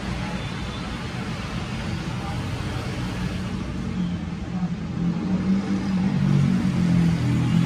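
Steady background road-traffic noise, with a low engine hum growing louder in the second half.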